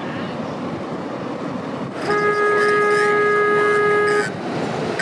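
A vehicle horn sounds one steady held honk of about two seconds, beginning about two seconds in, over a steady rush of background noise.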